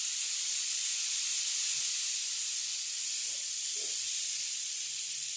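A 1.3 m rain stick turned over, its filling trickling down through the long tube in one continuous hissing cascade that eases slightly near the end.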